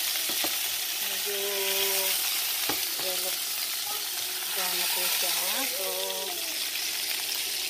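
Chicken pieces sizzling in hot oil in a nonstick frying pan while a spatula turns them, with a couple of sharp clicks of the spatula against the pan.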